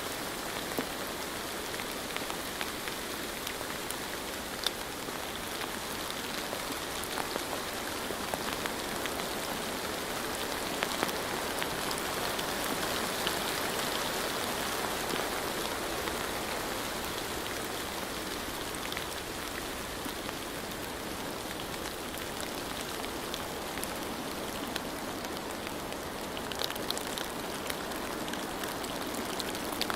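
Steady rain falling, with a dense hiss and scattered individual drops ticking.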